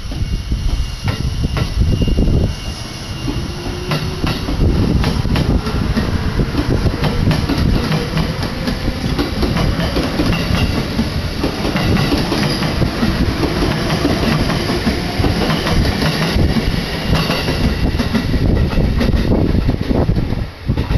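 Limited-express electric train passing close by at speed: the steady rush of the cars with many quick clacks of the wheels over rail joints.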